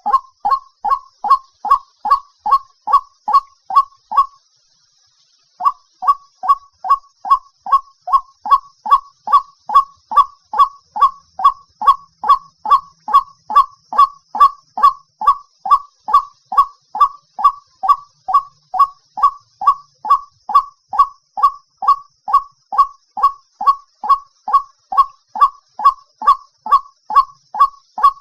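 White-breasted waterhen calling: a long series of harsh 'wak' notes repeated about twice a second, broken by a pause of about a second a little after four seconds in.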